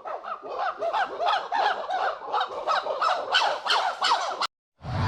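Farm poultry squawking, many short calls a second in quick succession, then cutting off abruptly near the end.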